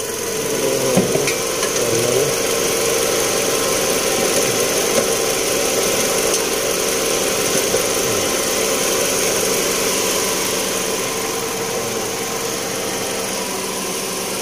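Replacement engine in a 2009 Toyota Camry, freshly installed, idling steadily. A few faint clicks come in the first couple of seconds.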